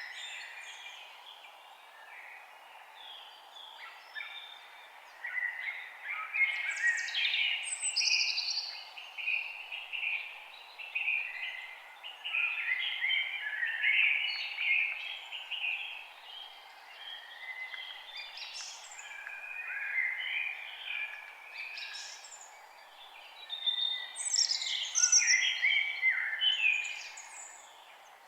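Several forest birds singing and chirping, with quick trills and rising and falling notes that come in clusters, busiest around 6–8 s, 12–14 s and 24–26 s in. A steady faint background hiss runs underneath.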